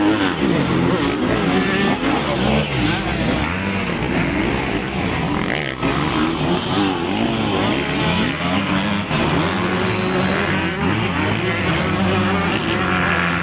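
Several motocross bike engines racing together, each revving up and dropping back in pitch as the riders accelerate and shift round the track.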